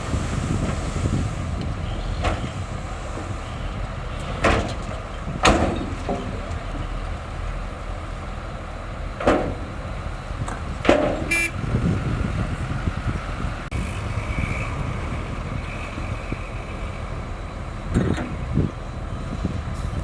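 Diesel engine of heavy earthmoving machinery running with a steady low rumble, broken by several sharp clanks and knocks.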